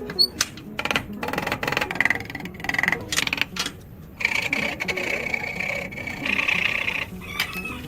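Scraping and rubbing strokes with sharp clicks, then a steady high-pitched whine lasting about three seconds.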